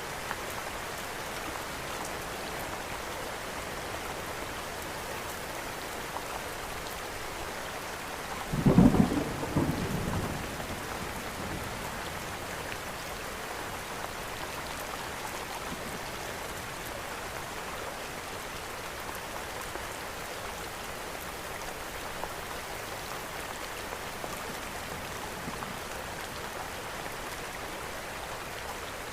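Steady rain with one low thunder rumble about nine seconds in, lasting a couple of seconds, mixed with occasional faint crackles from a wood fire.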